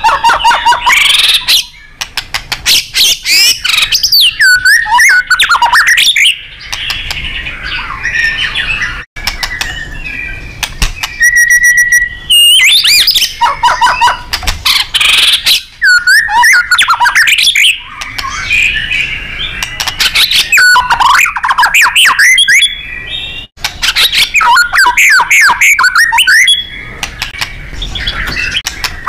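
White-rumped shama (murai batu) singing a loud, continuous song at full power: rapid rattling trills, sweeping whistles and harsh chatter with short pauses. A single steady whistled note is held for about a second near the middle.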